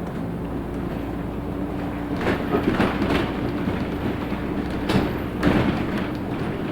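Inside a LiAZ 6213.65 articulated city bus under way: the engine and drivetrain hum steadily with a low droning tone. Several loud knocks and rattles come between about two and five and a half seconds in.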